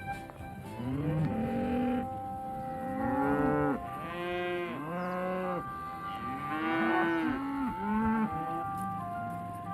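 Cattle mooing: a herd calling over one another, with several long calls that rise and fall in pitch, one after another.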